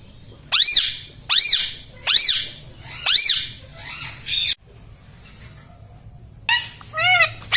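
Indian ringneck parakeet calling: four loud, sharp squawks that rise and fall, about one every 0.8 s, then a quicker run of calls near the end.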